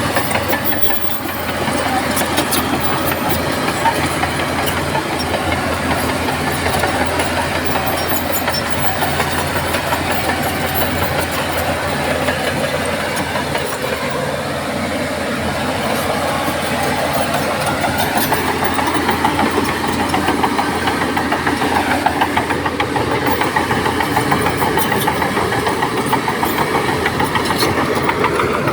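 Crawler bulldozer's diesel engine running steadily while pushing soil, its note rising a little and getting slightly louder about halfway through, with scattered light clicks.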